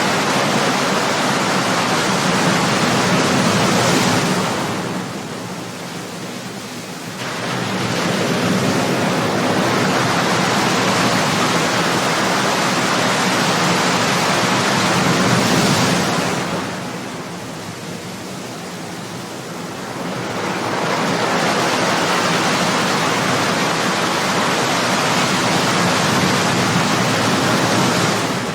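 Ocean surf breaking on a shore: a continuous rush of waves that swells and eases, with two brief lulls between surges, about five and seventeen seconds in.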